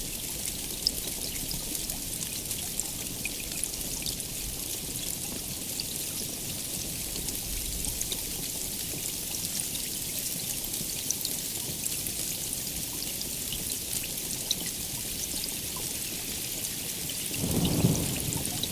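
Steady heavy rain, a dense hiss with scattered individual drops ticking through it. A brief low rumble of thunder swells up near the end.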